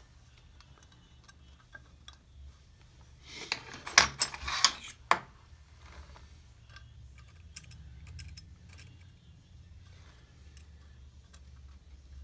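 Small metal clicks and taps as a jeweller's tool nudges a silver bezel into place on a soldering block, bunched together a few seconds in, then a few faint ticks, over a steady low hum.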